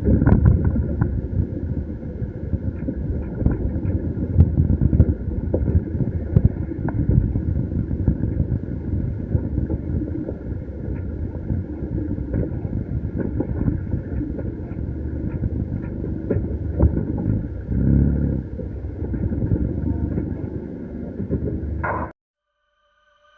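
Ambulance on the move: steady engine and road rumble with scattered rattles, cutting off suddenly near the end.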